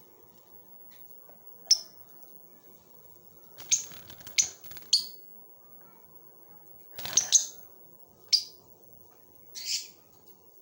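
Rosy-faced lovebird (parblue euwing opaline mutation) giving short, shrill chirps in scattered bursts: a single call, a quick run of four, a pair, then two single calls.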